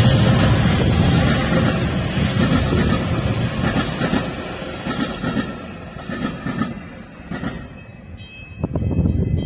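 Metra commuter train passing, its rolling noise on the rails loud at first, then fading away over the next several seconds. Music comes in near the end.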